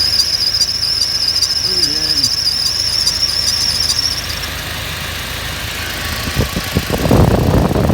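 Car engine's accessory drive belt squealing with a high, warbling tone, which stops about four seconds in after silicone lubricant is sprayed on the belt, leaving the engine idling. The squeal quieting under lubricant shows that the belt, not a bearing, is the source. A louder, low rough sound comes near the end.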